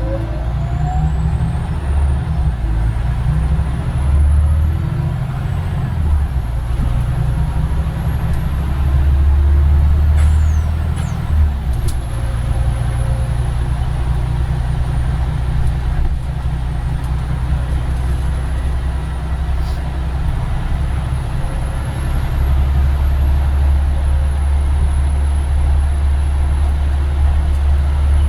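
Scania Omnidekka double-decker bus under way, heard from on board: a steady engine rumble that swells and eases as the bus pulls and slows, with a faint high whine that drifts up and down in pitch.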